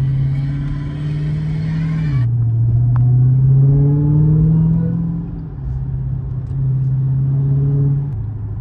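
Dodge Hellcat Redeye's supercharged 6.2-litre HEMI V8 on its stock intake, heard from the cabin while driving. It is screaming, roaring and whining, its pitch rising and stepping back down a few times.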